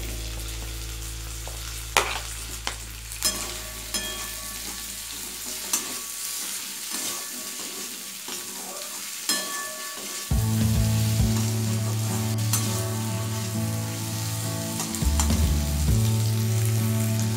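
Cubed potatoes sizzling as they fry in oil with onion and tomato in a metal kadai, stirred with a perforated metal spatula that clicks and scrapes against the pan now and then. A low steady hum comes in about ten seconds in.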